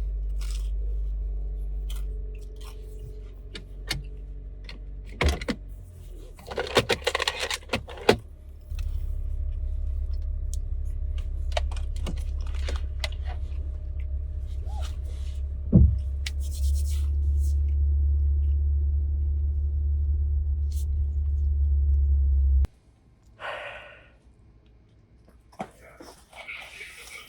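A steady low rumble with scattered clicks, clinks and scraping, cutting off suddenly near the end, followed by a short rustle.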